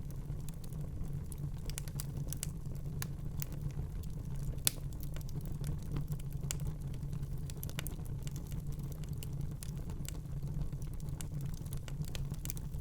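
Wood fire burning in a fireplace: a steady low rumble of the flames with irregular small crackles and pops, and one sharper pop about five seconds in.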